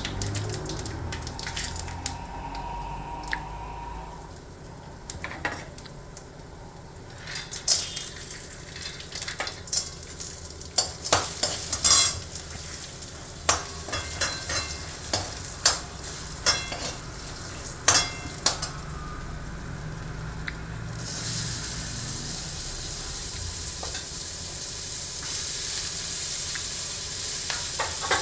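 A spoon stirring in a kadai, with a series of sharp taps and scrapes against the pan in the middle, then hot oil sizzling steadily under frying food through the last third.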